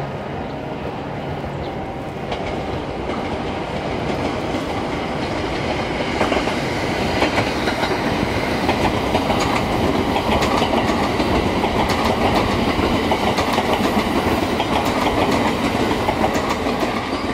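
A train passing close below on the tracks, its wheels clacking rapidly over rail joints, growing louder over the first several seconds and then staying loud.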